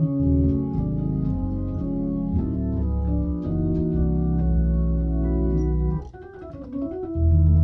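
Hammond A100 organ played through a Leslie 45 rotating speaker: sustained chords over held bass notes in gospel 'talk music' style, dropping away briefly about six seconds in before a loud full chord comes in near the end.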